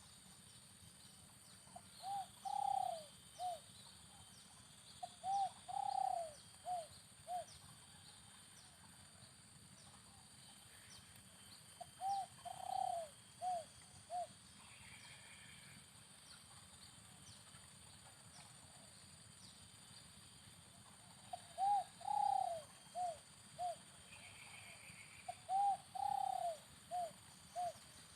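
Spotted dove cooing: five phrases of a few low coo notes each, every phrase with one longer drawn-out note among the short ones, spaced several seconds apart.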